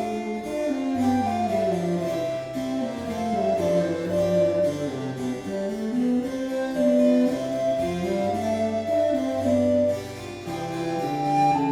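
Baroque chamber music played live: a recorder melody over a continuo of harpsichord and bassoon, with a moving bass line underneath.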